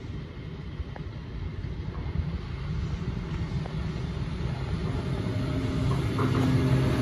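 Class 73 electro-diesel locomotive hauling a test train on approach: a low rail rumble growing steadily louder as it nears, with a steady low hum coming in near the end.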